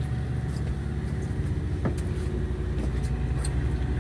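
Fishing boat's engine running steadily, a low pulsing drone, with a few light clicks.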